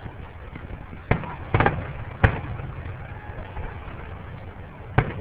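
Fireworks going off: a sharp bang about a second in, a quick cluster of cracks half a second later, another bang just after two seconds, and one more near the end, over steady background noise.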